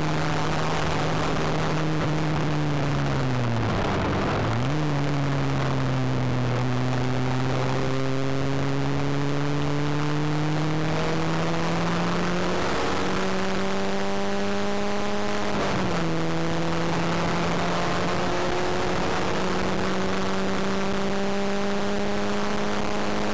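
Ford Fiesta XR2i's 1.8 16-valve four-cylinder engine heard from inside the cabin at speed on track. The revs fall as the car slows for a corner about four seconds in and jump back up. They then climb steadily under acceleration, with a sharp drop at a gear change about sixteen seconds in before climbing again.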